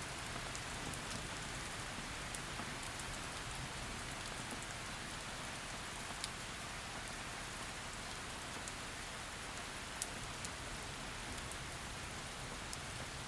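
Heavy rain falling steadily, a dense even hiss with single drops ticking sharply here and there, one louder tick about ten seconds in.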